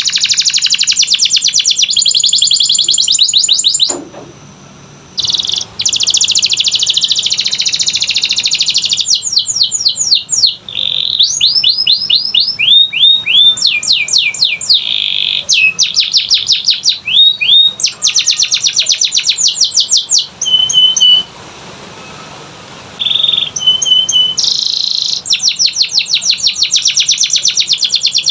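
Domestic canary singing a long, high-pitched song of very fast trills and rolls, mixed with runs of rising chirps. The song breaks off briefly about four seconds in and again around twenty-one seconds in.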